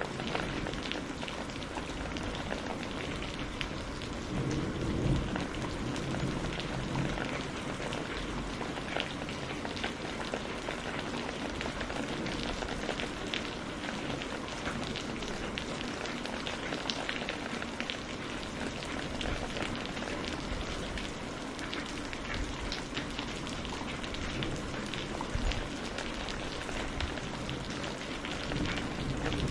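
Steady rain falling, with many individual drops ticking on a surface. A brief low rumble of thunder swells about five seconds in.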